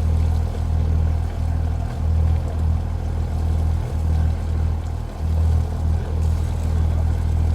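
Cummins diesel engine idling through its stainless steel exhaust, a loud, deep, steady drone that dips briefly every second or so. Water poured into the muffler is being blown out of the tailpipe, black with scrubbed-out carbon.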